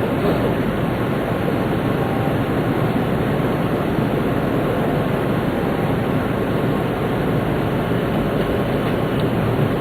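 Tohoku Shinkansen Hayate train running at speed, heard inside the passenger car: a steady rumble of wheels and rushing air with no distinct clicks or changes.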